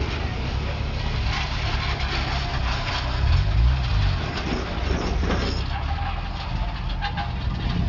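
Car engine running at low speed with a deep exhaust rumble, its pitch rising and falling once about three and a half seconds in.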